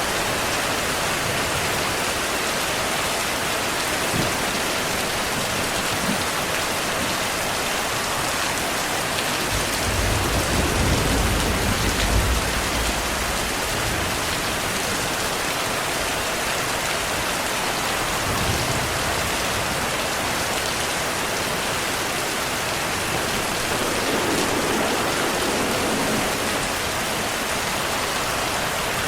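Steady heavy rain hissing. Low thunder rumbles for a few seconds about ten seconds in, with fainter low rumbles later on.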